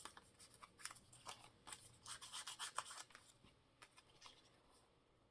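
Faint rustling and rubbing of paper scraps being handled and smoothed down on a journal card, a scatter of soft scratches that thins out after about four seconds.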